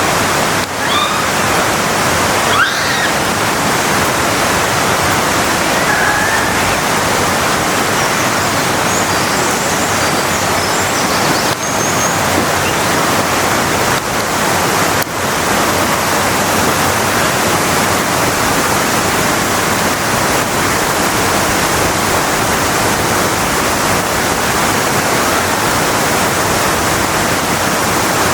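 Waterfall pouring steadily: a loud, even rush of water. A few faint, short high chirps sound over it near the start and again about ten seconds in.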